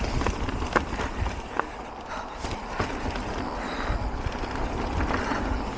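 Mountain bike riding down a rough dirt trail: wind rumbling on the microphone, tyres rolling over dirt and stones, and sharp knocks and rattles from the bike over bumps.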